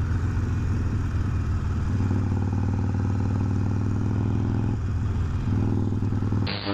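Motorcycle engine running at a steady speed, a low even hum. It breaks off about six and a half seconds in.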